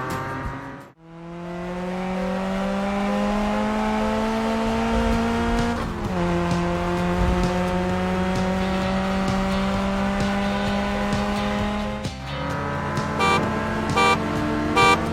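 A cartoon car engine accelerating through its gears: the pitch climbs steadily, drops at a gear change about six seconds in, climbs again and drops once more near twelve seconds. A few short beeps, like horn toots, follow near the end.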